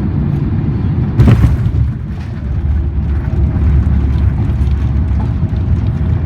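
Boeing 767-400ER cabin rumble with a sudden heavy thump about a second in, the main gear touching down on the runway, then a deep low roar that swells as the airliner rolls out.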